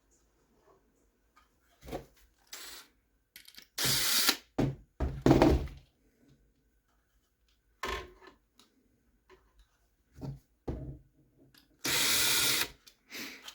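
Small screws and 3D-printed plastic parts being handled, giving scattered light clicks and knocks. There are two louder, short noisy bursts about four and twelve seconds in.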